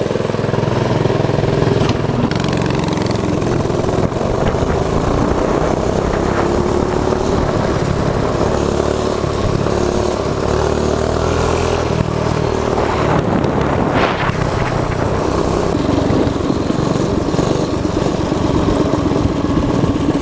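Predator 212 single-cylinder four-stroke engine on a mini bike running under way, its pitch rising and falling with the throttle.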